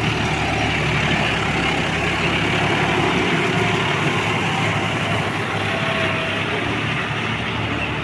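John Deere 5210 tractor's diesel engine running steadily.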